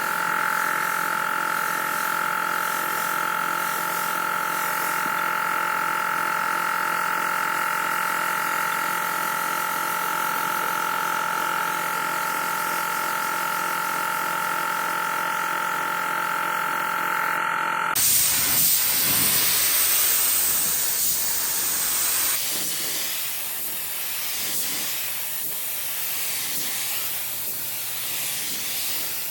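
A machine running steadily with a hum and fixed whining tones, which cuts off suddenly about two-thirds of the way in to a strong, steady hiss of compressed air, as from a spray gun or air line; a thin high whistle rides on the hiss for a few seconds.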